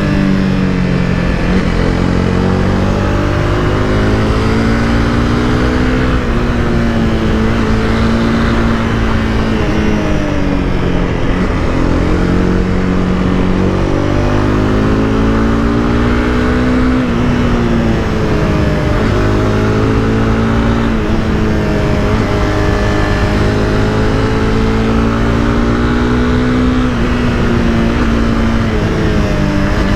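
Honda CBR300R's single-cylinder engine accelerating through the gears while riding. Its pitch climbs and then drops at each upshift, several times over, over a steady rush of wind and road noise.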